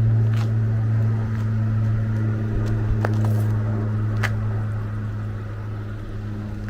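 Car running with a steady low hum and a few faint clicks, easing off slightly toward the end.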